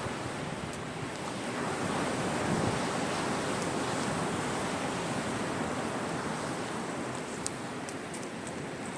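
Sea waves washing onto a shore in a steady surf that swells about two seconds in, with a few sharp crackles from a wood fire near the end.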